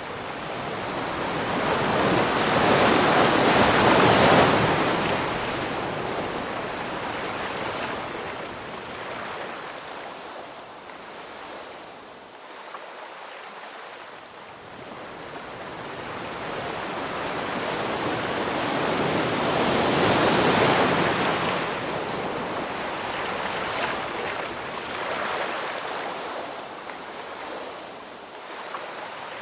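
Ocean waves breaking and washing up, two big swells peaking about four seconds in and again about two-thirds of the way through, with quieter surf hiss in between.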